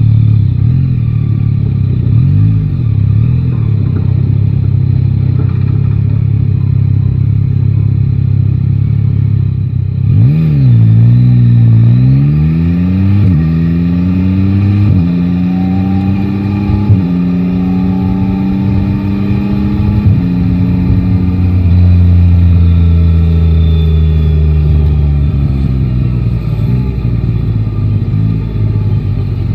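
Yamaha Tracer 9 GT's three-cylinder engine running steadily, then accelerating about ten seconds in. It climbs through several gears, the pitch rising and dropping back at each upshift, and the pitch falls away near the end as the bike eases off.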